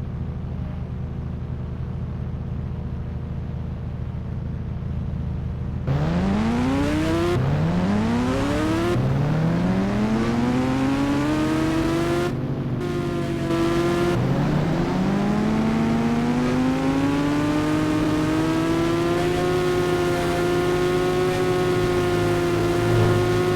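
Suzuki Hayabusa's inline-four engine running at a steady low drone, then, about six seconds in, accelerating hard through the gears. The engine note climbs, drops back at each upshift several times, and then holds steady at a cruise.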